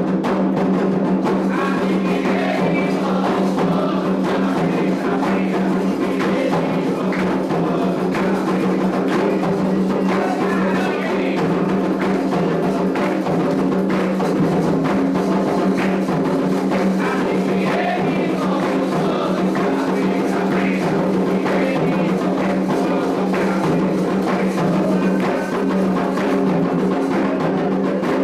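Candomblé ritual music: atabaque hand drums beating a steady, dense rhythm while voices chant.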